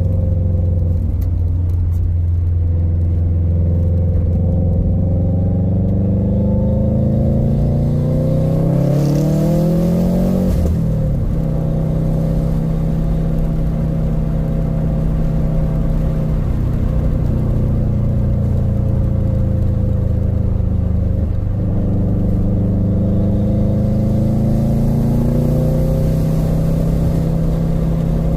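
2014 Subaru WRX hatchback's turbocharged flat-four running through an Invidia N1 race exhaust. The engine note climbs steadily for several seconds, drops sharply about ten seconds in, then holds and climbs again twice more.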